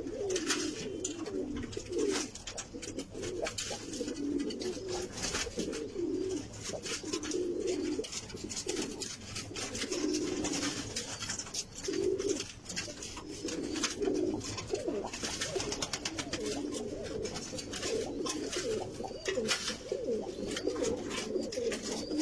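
Several domestic pigeons cooing over one another in repeated low, throaty phrases, with scattered light clicks and rustles among them.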